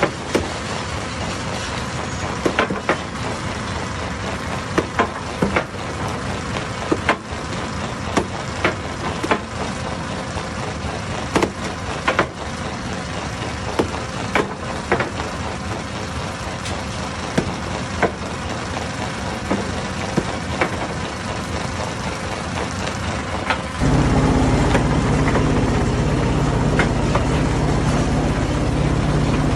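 Hammer stone crusher running steadily, with irregular sharp knocks of rock, roughly one or two a second. About 24 seconds in, a louder, deeper engine drone suddenly sets in and holds steady.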